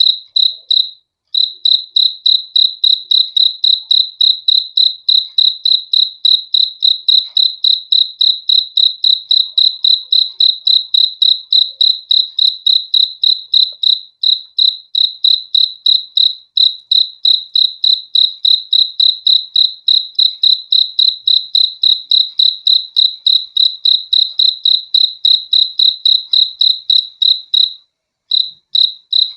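A cricket chirping in a steady, even rhythm of about four high-pitched chirps a second, briefly pausing about a second in and again near the end.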